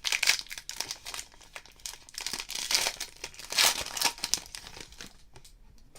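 Plastic wrapper of a pack of football trading cards crinkling and tearing as the pack is ripped open, in a run of crackling bursts that die down near the end.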